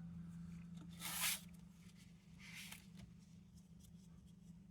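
Two brief, faint rustling scrapes of filler being worked onto a lantern's tin tank by hand, over a steady low hum.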